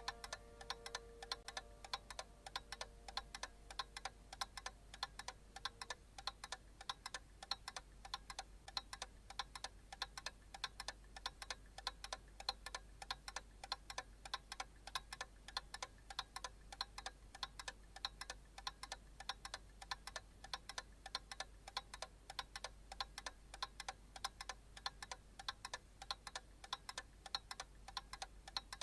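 Quick, even ticking, like a clock, kept up steadily and faintly. A held note fades out over the first few seconds.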